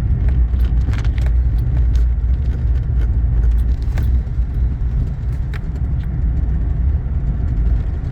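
Car driving on a snowy mountain road, heard from inside the cabin: a steady low road and engine rumble, with scattered light clicks and rattles.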